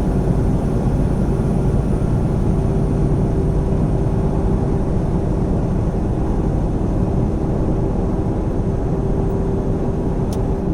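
Semi truck's engine and road noise heard from inside the cab while driving, a steady drone with a constant hum.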